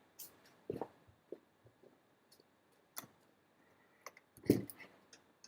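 A few scattered, separate clicks and light knocks, the loudest a duller knock about four and a half seconds in.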